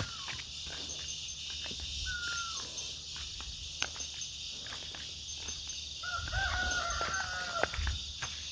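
A rooster crowing, one long call of about a second and a half near the end, after two short high calls earlier. A steady insect drone and scattered footstep crunches run underneath.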